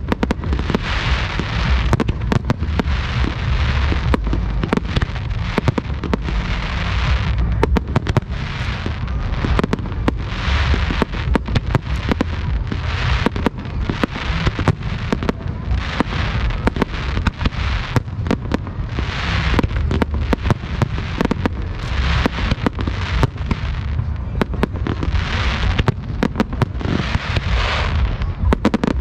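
Aerial fireworks shells bursting in a rapid, continuous barrage of sharp bangs. Stretches of crackling hiss lie between the bangs, over a steady low rumble.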